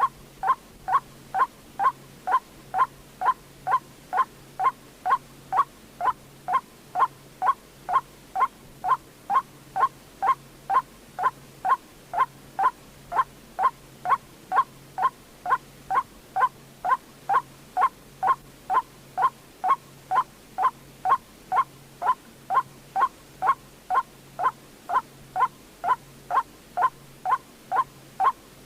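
White-breasted waterhen call, a single note repeated about twice a second at a perfectly even pace without a break: the looped "quốc" call used as a lure for trapping the birds at night.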